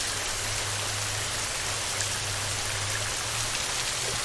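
Heavy, steady rain falling on a metal roof: a dense even hiss with scattered drop ticks. A low hum sits underneath and fades out about three and a half seconds in.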